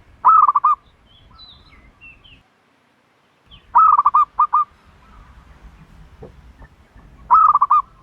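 A dove calling: three short bursts of rapid repeated notes, about five or six notes in each half-second burst, spaced about three and a half seconds apart. Faint chirps of small birds can be heard between the calls.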